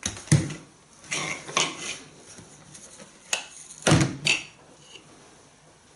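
Hard plastic knocks and clicks as a handheld vacuum's nozzle attachments are handled. There are several separate sharp strokes, the loudest near the start and a close pair about four seconds in.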